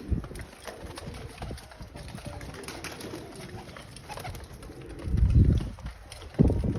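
Pigeons cooing, low and murmuring, with two louder low bursts, one about five seconds in and one near the end.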